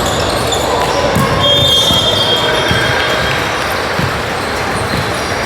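Basketball bouncing on a gym court during a youth game, with the hubbub of a hall behind it and a brief high squeak about one and a half seconds in.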